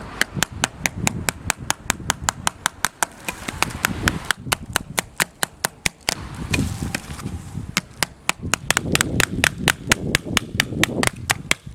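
Wood fire crackling, with a quick, continuous string of sharp pops and snaps over a low rushing rumble.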